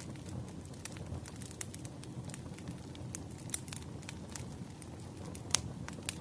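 Burning firewood crackling: a steady low rumble of the fire with irregular sharp pops and snaps, one louder pop about five and a half seconds in.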